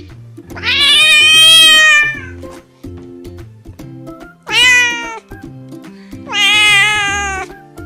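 Domestic cat meowing three times, long drawn-out calls, the first the longest, over background music.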